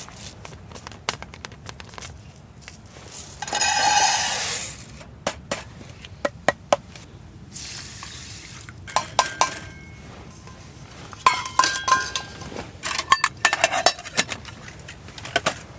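Metal camp cookware and utensils being handled: scattered clicks and ringing clinks, busiest in the second half. A loud rushing noise lasts about a second, about four seconds in.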